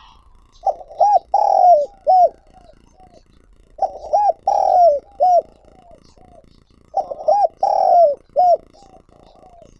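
Spotted dove (cu gáy) cock cooing: three phrases a few seconds apart, each a run of short hooked coo notes with one longer note in the middle. It is a decoy bird's calling coo (gáy gọi), the song used to lure wild doves.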